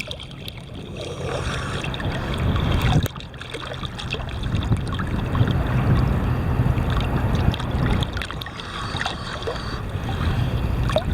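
Choppy seawater sloshing and splashing around a camera at the water's surface, under the steady low hum of a lobster boat's engine.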